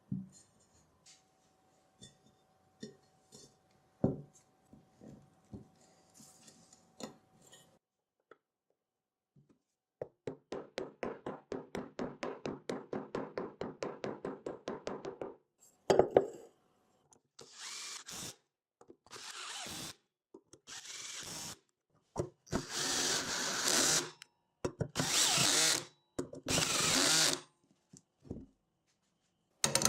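Tools fastening parts on a mini dirt bike: scattered small clicks and taps, then a run of rapid, even clicks lasting about five seconds, then a power tool running in several short bursts of one to two seconds each.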